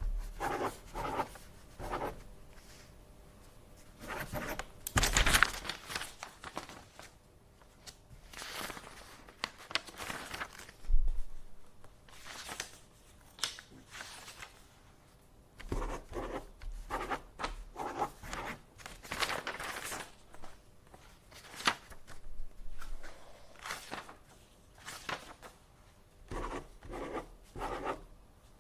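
Paper being handled at a desk: sheets rustling, sliding and being shuffled in irregular short swishes, with one sharp knock a little before halfway.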